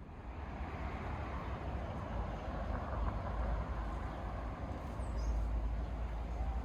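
A steady rumbling noise that swells over the first couple of seconds, with a short, high bird chirp about five seconds in.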